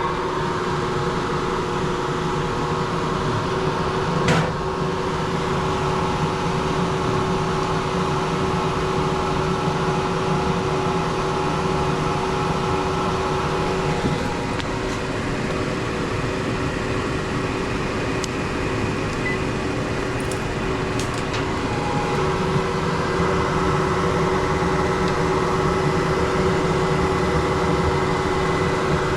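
Central air-conditioning equipment running steadily: a continuous mechanical hum with several steady tones in it. A single short knock about four seconds in.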